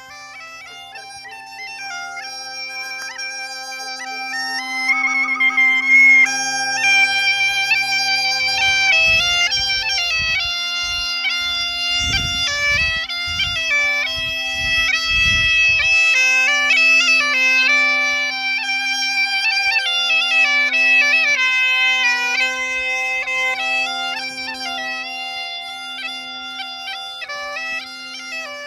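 Bagpipe playing a tune over its steady drone, growing louder over the first few seconds. Low rumbling bumps come in briefly about a third of the way through.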